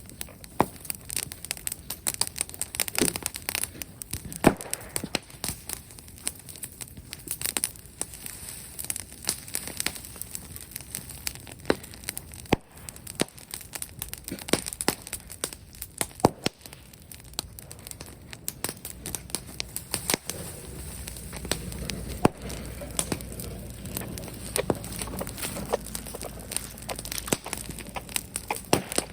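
Brushwood bonfire crackling, with frequent irregular sharp pops and snaps. A low rumble comes up in the second half.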